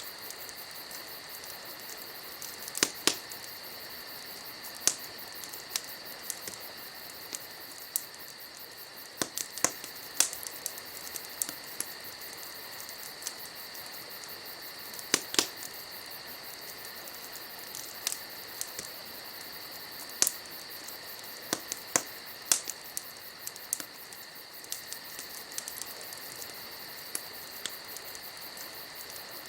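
Wood fire crackling, with irregular sharp pops every second or few. Underneath is a steady high-pitched chirring of night insects.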